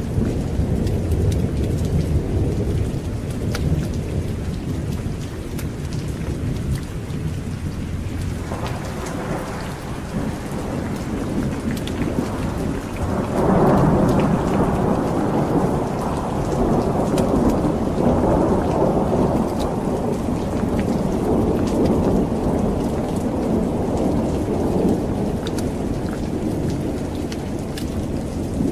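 Steady heavy rain with rolling thunder. A low rumble sounds at the start, and a louder roll of thunder begins about halfway through and rumbles on for around ten seconds before fading back into the rain.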